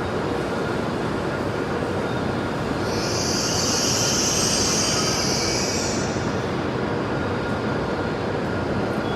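A Hokuriku Shinkansen bullet train pulling into the station platform, with a steady rumble and a high squeal or hiss that rises about three seconds in and fades about three seconds later.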